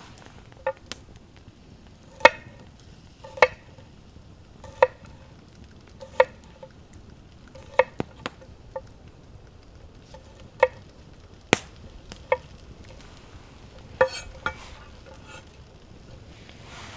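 A knife chopping onto a wooden cutting board: about a dozen separate sharp knocks, each with a short ring, spaced roughly a second apart.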